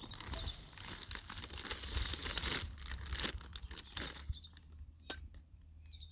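Birdseed rattling and its bag rustling as a bird feeder is filled, a dense crinkling rattle for about four seconds, then a couple of single clicks.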